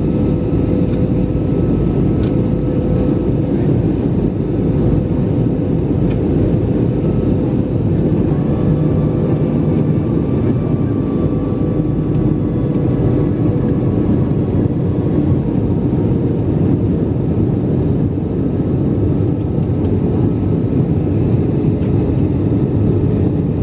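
Steady cabin noise inside an Airbus A319 airliner on approach: the rush of air past the fuselage and the engines' drone, with a faint steady whine above it.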